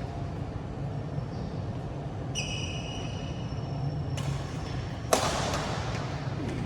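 Sounds of badminton play on a court: a brief high squeak about two and a half seconds in and a single sharp hit about five seconds in, over a steady low hum.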